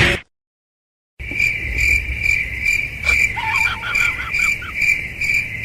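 Cricket chirping, a steady high pulse repeating about two and a half times a second, starting about a second in after a brief silence. Fainter short warbling chirps come over it about halfway through.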